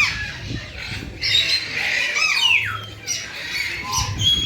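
Birds squawking and calling over each other in short cries that swoop up and down in pitch.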